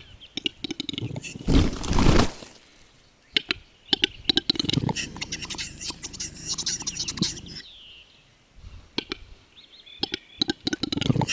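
Western capercaillie display: a series of sharp clicks, then a loud burst about two seconds in, followed by several seconds of scratchy, wheezing sounds, with more clicks near the end.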